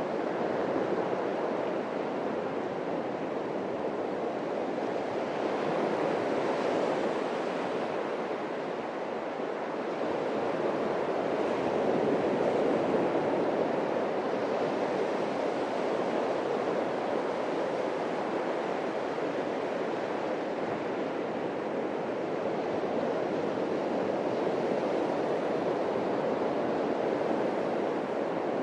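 Atlantic surf breaking and washing on the beach in a continuous rush, swelling and easing slowly as the waves come in. A slight dip about a third of the way in, then a louder surge.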